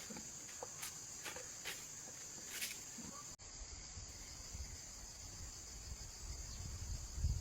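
Steady high-pitched chorus of insects, crickets or similar, with a few faint clicks and rustles over it in the first three seconds. A low rumble comes in near the end.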